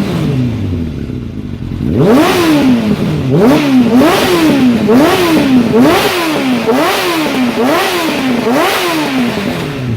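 Suzuki Bandit 600's inline-four engine, through a Micron aftermarket exhaust, revved in quick throttle blips. A rev dies away at the start. From about two seconds in come about eight blips, roughly one a second, each rising sharply and falling back.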